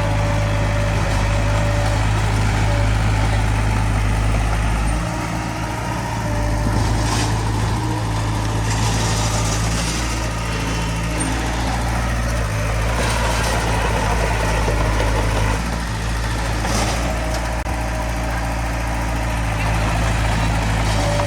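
Bulldozer diesel engine running steadily, with its level easing off briefly about five seconds in and again near fifteen seconds.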